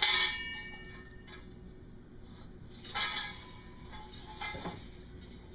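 Metal muffler core clanking as it slides out of the muffler body and is handled. There is a clank with a short metallic ring at the start, another ringing knock about three seconds in, and a lighter knock a little later.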